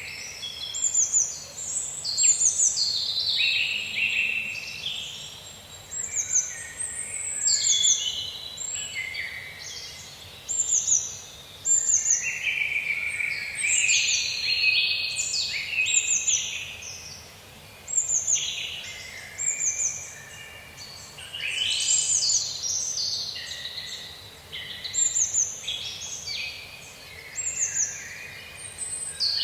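Several songbirds singing and calling over one another, with many short high chirps and whistled phrases in quick succession.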